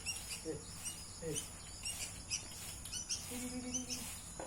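Birds chirping, many short high chirps several times a second, with a brief low hum a little after three seconds in.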